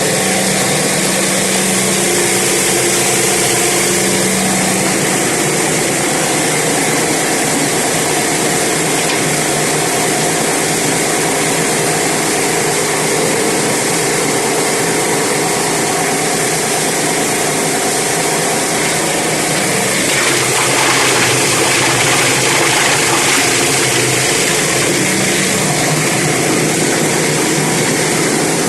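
A 20-inch plastic grinder running steadily as it cuts up plastic bottles: a continuous loud grinding noise over a motor hum, growing louder and brighter about two-thirds of the way through.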